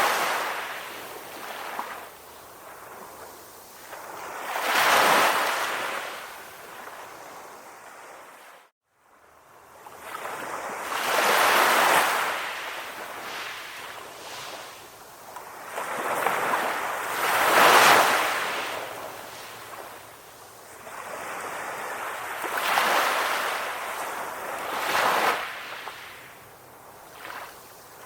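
Sea waves surging and washing back, each swell rising and fading every five to six seconds. About nine seconds in, the sound briefly cuts out to silence.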